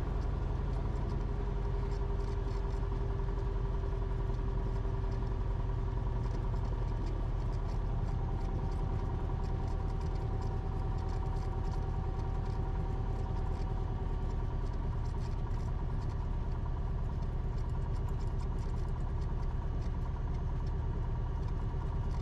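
Cessna 172RG's four-cylinder Lycoming piston engine running steadily at low taxi power, an even drone.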